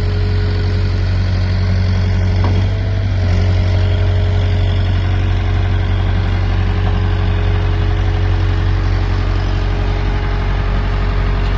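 Caterpillar machine's engine idling steadily with a deep, even hum; its tone shifts slightly about three seconds in.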